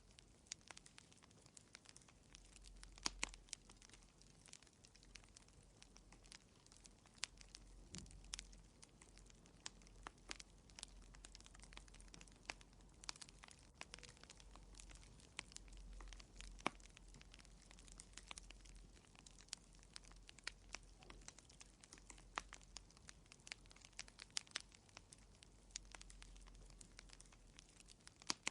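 Faint wood fire in a fireplace, crackling with frequent irregular small pops and snaps over a low, steady rumble.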